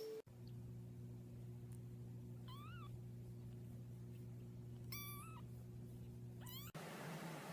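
A cat meowing three times, short calls with the second the longest, over a steady low hum.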